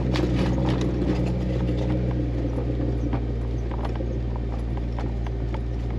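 Jeep Wrangler crawling slowly downhill in four-wheel-drive low range: a steady low engine drone with irregular clicks and knocks, several a second.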